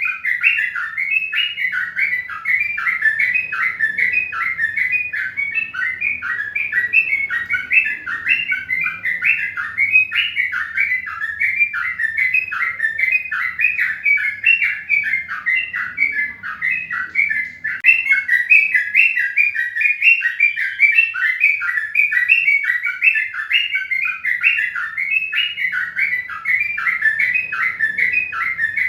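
Small birds chirping rapidly and without a break, many short calls overlapping.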